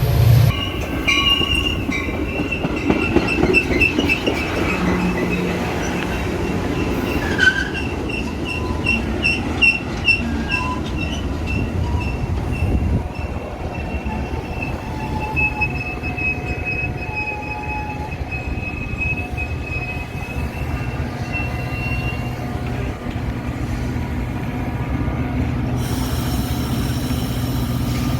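Metra commuter train rolling on the rails with its wheels squealing in a high, wavering tone that dies away after about twenty seconds, over a steady rumble.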